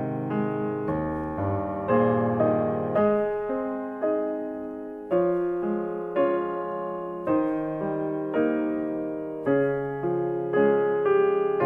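Background music: a slow, gentle piano melody, notes struck about once a second and left to fade.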